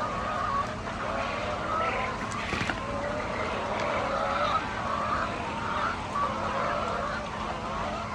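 A flock of chickens calling and clucking all together, many wavering cries overlapping, over a steady low hum.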